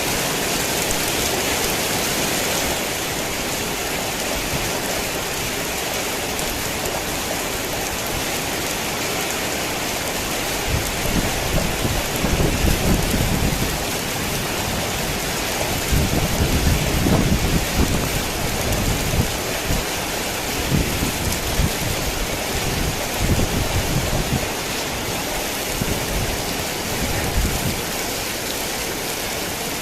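Heavy rain falling steadily as a dense hiss. Low rumbles of thunder roll in about a third of the way through and again through the middle.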